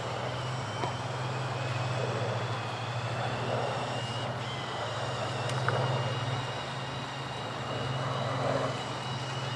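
Piston engines of a Supermarine Spitfire and Hawker Hurricane droning steadily as the pair of fighters fly their display, the drone swelling and easing slightly.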